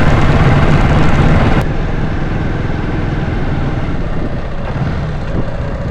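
A vehicle moving along a rough road: dense engine and road rumble that drops abruptly about a second and a half in, then runs on quieter and steady.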